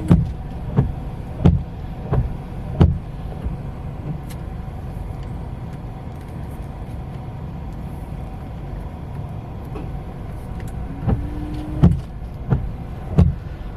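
Windshield wipers with worn Rain-X Latitude blades sweeping across the glass of a 2013 Mitsubishi Outlander Sport, a thump at each turn of the stroke, over the steady hum of the idling engine. The knocks come in a run at the start, stop for several seconds, and start again after a short motor whine near the end. The blades are worn out and leave water on the glass.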